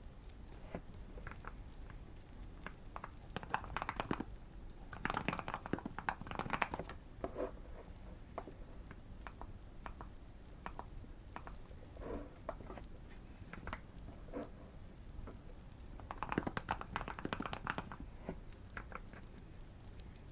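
Typing on a modded Keychron Q1 mechanical keyboard: quick runs of key presses in several bursts, with scattered single keystrokes in between. A fire crackles softly underneath.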